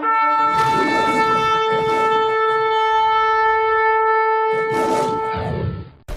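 A long horn-like blast held on one steady pitch for about five seconds, then sliding down in pitch as it dies away near the end.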